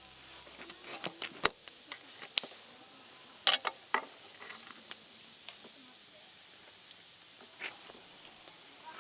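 Wood fire crackling: a steady hiss with irregular sharp pops, a cluster of louder ones about three and a half seconds in.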